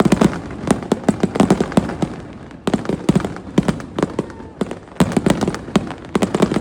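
Fireworks display: aerial shells bursting in clusters of sharp bangs and rapid crackling pops, one flurry after another.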